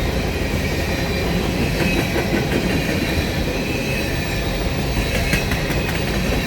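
Empty freight cars of a grain train rolling past at speed: a steady rumble of steel wheels on the rails, with a faint high wheel squeal.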